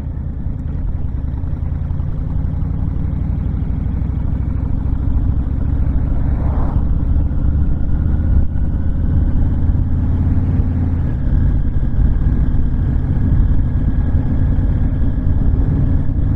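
Honda VTX1300 V-twin engine running and wind rushing over the microphone as the motorcycle cruises along, a steady low rumble that grows a little louder over the first few seconds.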